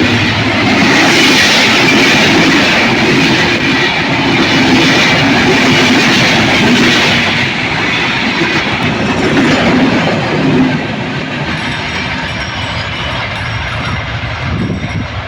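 Broad gauge train running on the rails, its wheels clattering over the track. It is loud for about the first ten seconds, then drops noticeably quieter.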